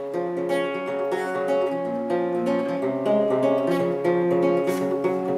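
Acoustic guitar strumming chords, starting suddenly and ringing on steadily with repeated strokes, as the instrumental opening of a song before the singing begins.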